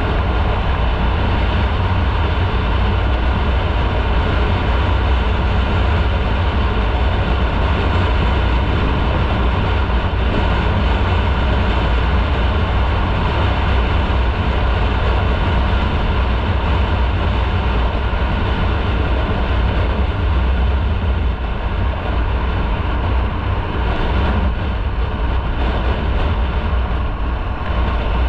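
Motorcycle under way: steady engine, road and wind noise with a heavy low rumble, easing slightly a little after twenty seconds.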